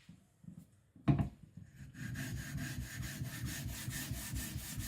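A single knock about a second in, then a steel kiridashi blade rubbed back and forth on a wet whetstone in quick, even strokes, about four or five a second, flattening the blade's back.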